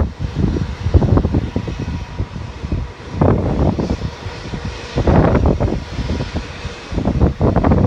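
Jet airliner engines running, under heavy, irregular wind buffeting on the microphone.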